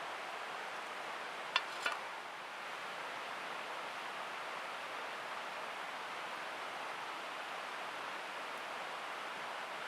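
A steady, even rushing noise, with two sharp clicks close together about a second and a half in.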